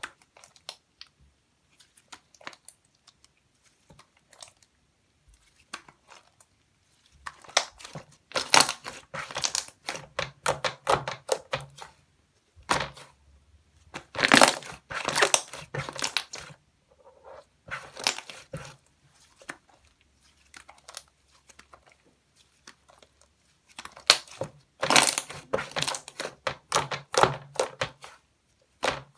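Toffee slime being squeezed and pressed by hands, giving bursts of dense crackling clicks, several times, with short pauses between.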